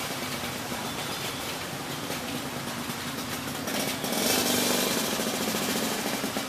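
Heavy rain falling as a dense, steady hiss over a low mechanical hum, swelling louder for a couple of seconds about four seconds in.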